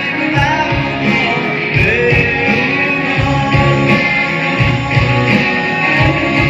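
A man singing a rock-style song over backing music with a steady beat.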